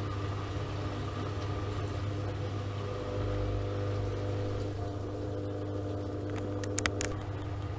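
Miele Softtronic W3923 washing machine running steadily, its drum motor giving a constant hum, with a couple of sharp clicks about seven seconds in.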